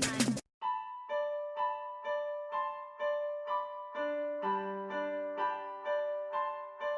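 Background music: a soft piano melody of evenly struck notes, about two a second, with a lower accompanying line joining about halfway through. It comes in just after louder music cuts off abruptly.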